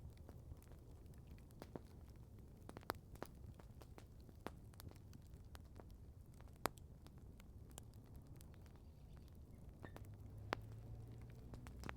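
Outdoor wood campfire crackling softly: sparse, irregular sharp pops and ticks, the loudest about two-thirds of the way through, over a low steady rumble.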